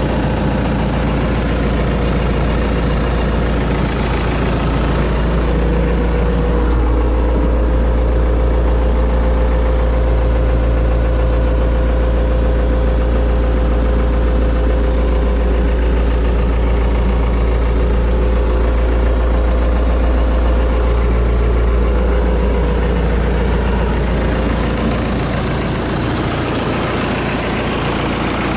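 New Holland T4050 tractor's diesel engine running steadily at idle. A steady whine sits above the engine note from about five seconds in until near the end.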